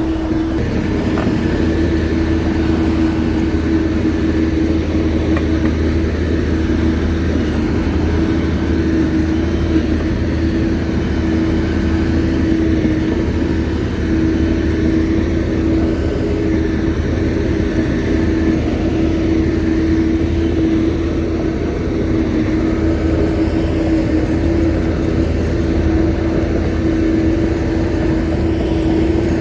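Shantui bulldozer's diesel engine running steadily at a constant pitch.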